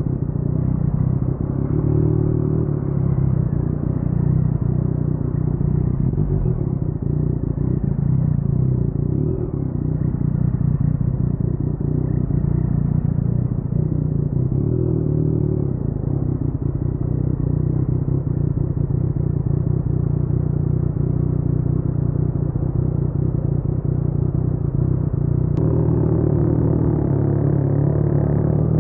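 Yamaha MT-09's crossplane inline-three engine through an Akrapovic carbon full-system exhaust, running at low revs with only small rises and falls as the motorcycle rolls slowly.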